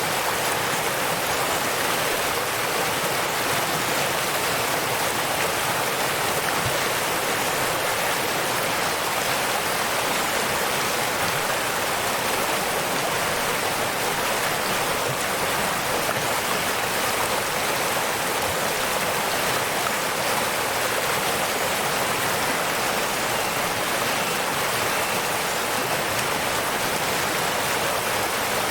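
Waterfall: falling water rushing in a steady, even hiss with no breaks or changes.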